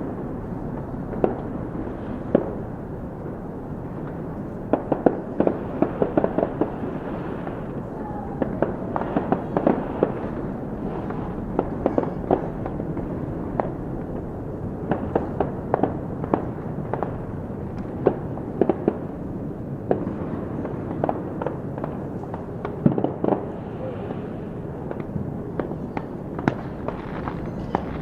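Fireworks going off: many irregular sharp bangs and crackling pops, often in quick clusters, over a steady background rumble.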